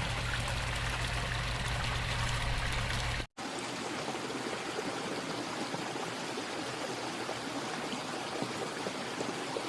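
Water running steadily down a garden pond waterfall and stream. There is a low rumble under it for the first three seconds, then the sound cuts out for a moment.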